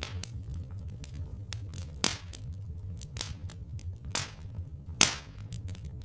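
Wood fire crackling, with irregular sharp snaps and a few louder pops, over a steady low rumble.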